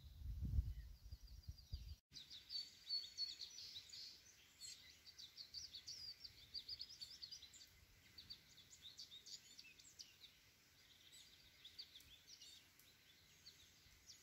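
Faint birdsong: many quick high chirps, starting about two seconds in after a brief low rumble.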